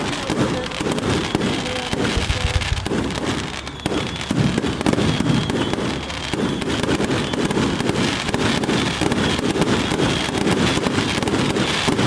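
Fireworks display: aerial shells bursting one after another in a steady, dense barrage of booms and crackles.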